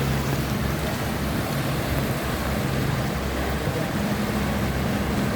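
Boat engine running steadily with a low hum, under a constant rush of wind and water noise.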